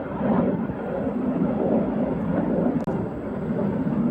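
An airplane in flight overhead: a steady engine drone with no distinct strokes or tones.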